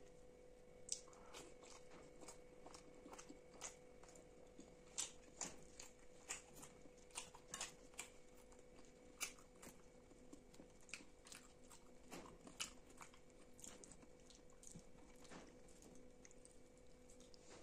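Close-miked chewing and wet mouth sounds of eating roti dipped in chana masala: irregular soft clicks and smacks, several a second at times, with no talking.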